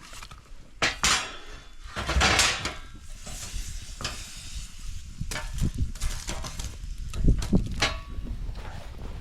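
Irregular scrapes and clicks of a knife and fork against a plate as a steak is cut and eaten.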